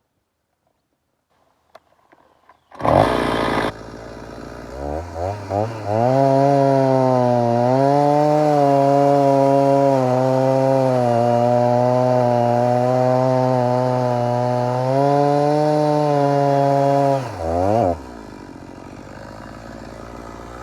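Stihl MS 290 two-stroke chainsaw starting up with a sudden burst about three seconds in, idling and blipping the throttle a few times, then held at full throttle for about eleven seconds with its pitch dipping and recovering as it works through the dry log, before dropping back to idle.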